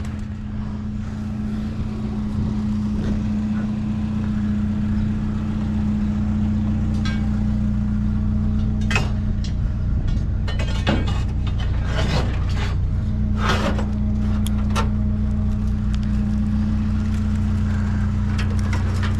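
A motor vehicle engine idling steadily, under several sharp clinks and knocks of metal scrap being handled, mostly in the middle stretch.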